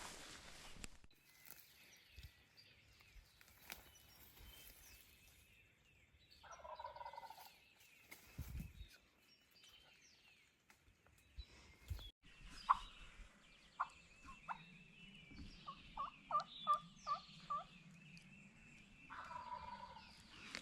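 Distant wild turkey gobbler gobbling from the roost, once about six seconds in and again near the end, with a run of soft turkey yelps in between. Faint songbird chirping throughout.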